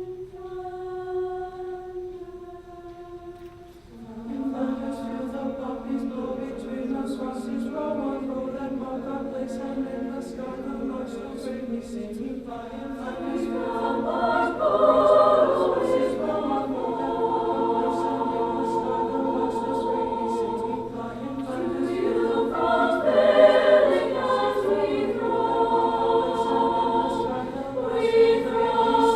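Choir singing slow, sustained chords. A single held line opens, the full choir comes in about four seconds in, and the sound grows louder toward the end.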